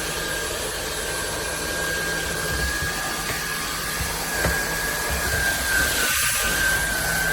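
SMOTURE cordless stick vacuum running steadily: a high motor whine over the rush of airflow, with a couple of faint knocks.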